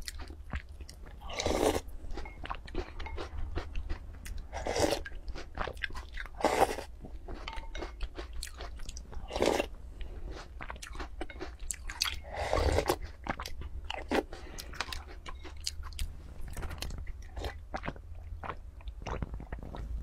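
Close-miked chewing and crunching of milk-soaked snack pieces eaten by the spoonful, with many small clicks and a louder mouthful every few seconds.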